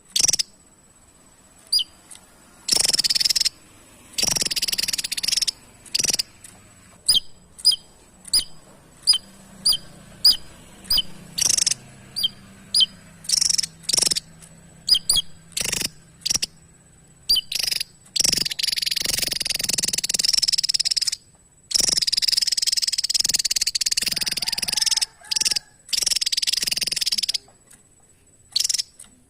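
Javan tesia singing: a run of short, sharp high notes, many dropping quickly in pitch, one or two a second, then long rapid jumbled phrases of high notes in the second half.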